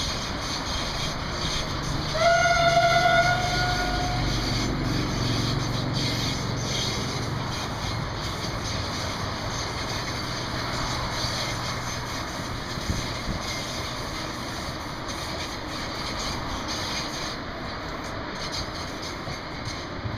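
Sapsan high-speed electric train running past with a steady low rumble of wheels on track. About two seconds in, a train horn sounds one steady blast of a second or two.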